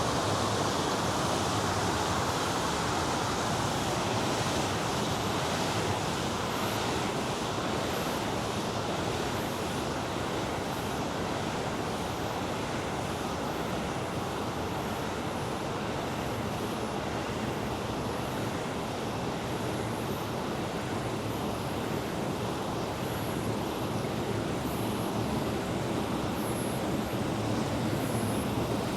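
River water rushing steadily, a constant full hiss of flowing water with no break.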